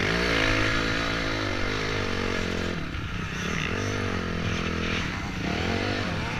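Honda CRF250X enduro motorcycle's single-cylinder four-stroke engine being ridden with the throttle opened and closed, its pitch rising and falling several times.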